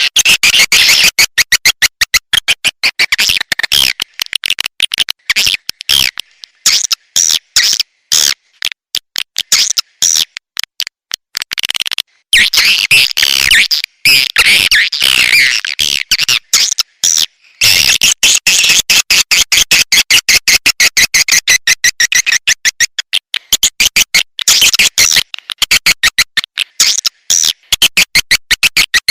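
Recorded swiftlet calls from a swiftlet-farming lure track: rapid chattering clicks and high twittering chirps in dense runs, with short breaks and a thicker burst of twittering mid-way.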